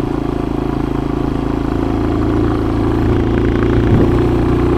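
Motorcycle engine running steadily while riding, growing a little louder from about two seconds in.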